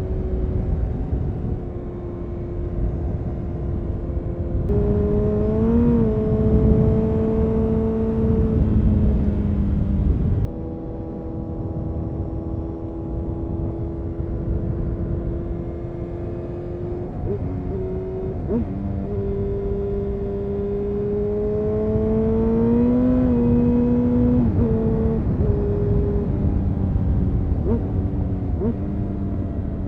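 Honda CBR929RR Fireblade's inline-four engine through an Erion full racing exhaust, pulling through the gears on the road. The pitch holds steady, jumps up about five seconds in, drops sharply about ten seconds in, then climbs again and falls off, with several quick throttle blips in the later part.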